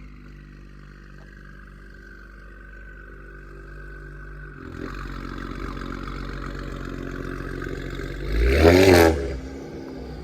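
2019 Audi RS5 Sportback's twin-turbo V6 idling through catless downpipes, the idle growing louder about halfway in. Near the end comes one quick rev that rises and falls in pitch, the loudest part, before it drops back to idle.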